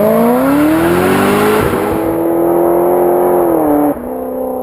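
Car engine revving: the pitch rises over the first second and a half, holds high, then drops about four seconds in as the throttle is released.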